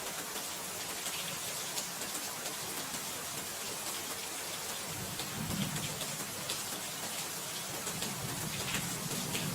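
Steady rain falling, with drops ticking on a surface; a low rumble joins in about halfway through.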